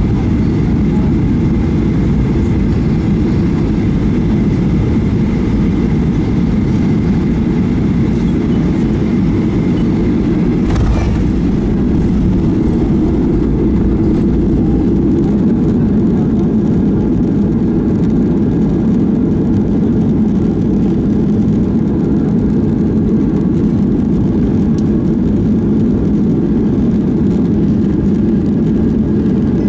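Passenger airliner in flight heard from inside the cabin: an even, deep rumble of engine and airflow noise, with a brief knock about eleven seconds in.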